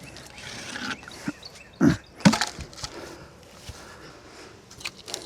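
Firewood logs knocking and cracking against each other in a few sharp strikes, the loudest two about two seconds in, with smaller clicks near the end.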